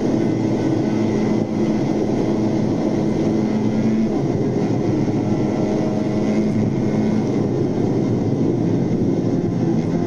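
A motor vehicle running steadily, its engine and road noise continuous throughout.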